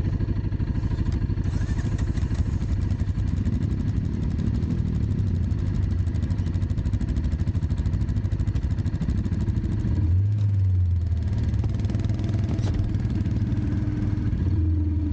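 Dirt bike engine running with a steady, rapid pulse, briefly louder about ten seconds in.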